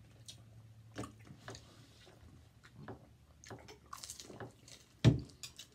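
Close-miked eating: biting and chewing crisp fried egg rolls, with scattered short crunches. A single sharp knock about five seconds in is the loudest sound.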